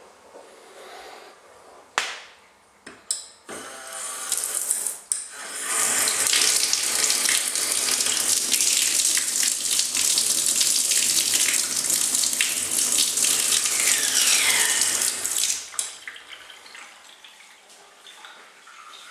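Tres Cuadro basin mixer tap turned on with a couple of clicks, then running with a loud hissing rush of water, the noise the tap has made since it was installed; a short falling whine sounds near the end before it is shut off with a click about sixteen seconds in.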